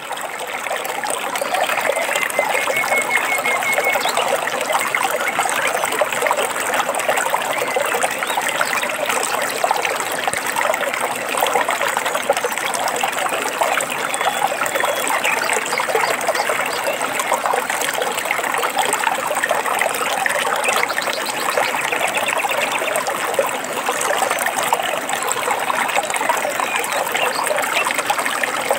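Running water trickling and splashing in a steady stream, fading in at the start and then holding even.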